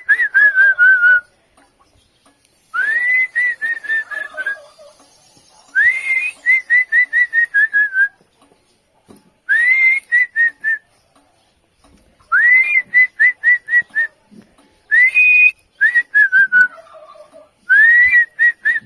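A bird giving loud whistled calls, each a rising note followed by a quick run of falling notes, repeated about eight times with short pauses, answering another's call.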